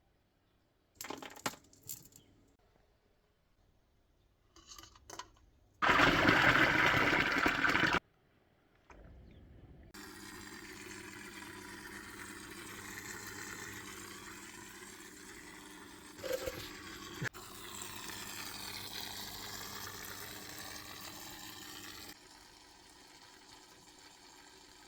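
A few small clicks and knocks, then water pouring in a loud rush for about two seconds, followed by a softer steady flow of water for about twelve seconds with a sharp click partway through.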